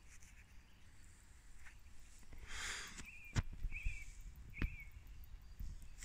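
A bird gives three short warbled notes, evenly spaced, between about three and five seconds in. Two sharp knocks fall among the notes, and a brief soft rush comes just before them.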